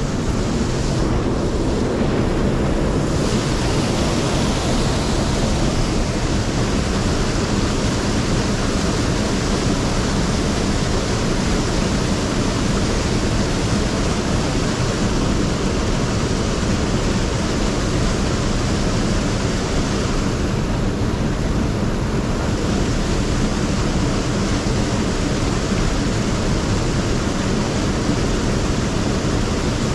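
Mountain stream water running steadily, a constant loud hiss of flowing water with no breaks.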